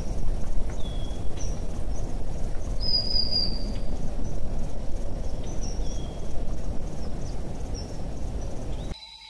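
Short, high bird chirps every second or so, with one longer whistle about three seconds in, over a steady low rumbling noise. Near the end it cuts abruptly to a quieter, steady high insect-like trill.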